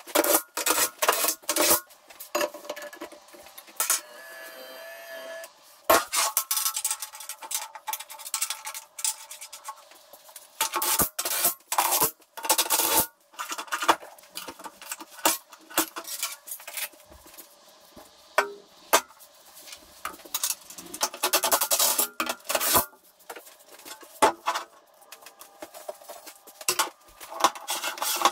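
Irregular bursts of scraping and rasping on metal, mixed with sharp clinks and knocks, from metal parts being worked by hand in the workshop.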